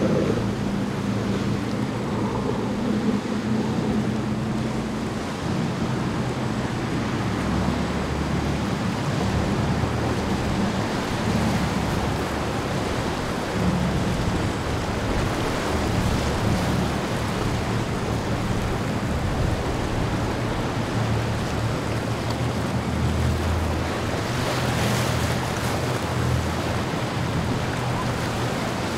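Boat engines humming through rough inlet waves, with surf noise and wind on the microphone.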